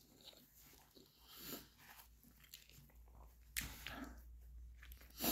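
Close-up mouth sounds of a person chewing, with a bite into a piece of food held in the hand about three and a half seconds in.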